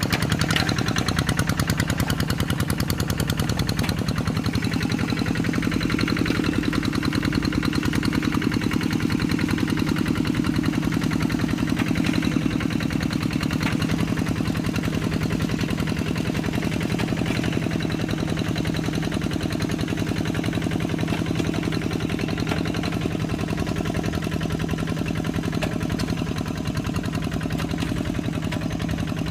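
Kubota RD85DI-2S single-cylinder diesel engine of a Quick G3000 Zeva hand tractor running steadily, with a rapid, even beat of firing pulses.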